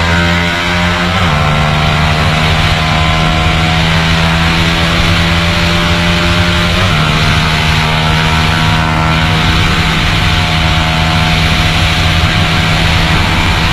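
150 cc single-cylinder sport motorcycle engine running hard at high revs, heard from on board at speed with wind rush over the microphone. The engine note drops twice, about a second in and about seven seconds in, as the rider shifts up a gear, and holds steady in between.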